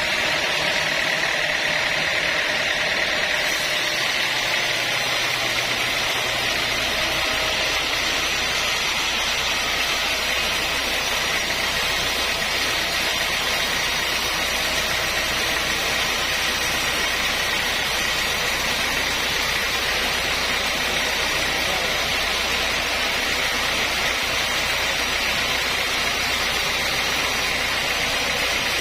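Sawmill saw running steadily through mahogany, a continuous high, hissing cutting noise. A low machine hum joins about six seconds in.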